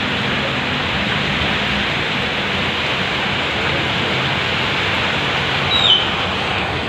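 Heavy rain pouring down in a steady, loud hiss. About six seconds in, a brief high chirp drops in pitch over the rain.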